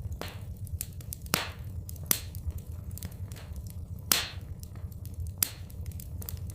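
Fireplace fire crackling, with sharp pops at irregular moments, the loudest about a second and a half, two seconds and four seconds in, over a steady low rumble.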